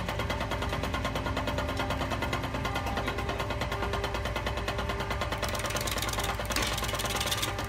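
Homemade wood lathe running with a large log blank spinning on it, a steady machine sound with a fast, even clatter. About five and a half seconds in, a hand-held turning tool bites into the spinning wood, adding the hiss and scrape of cutting.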